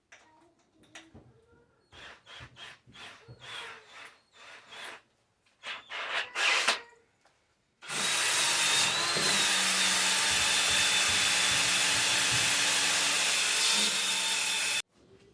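A series of short, irregular scraping strokes. Then an electric power tool runs steadily for about seven seconds, starting and stopping abruptly, most likely working the old hay saw's blade during its clean-up.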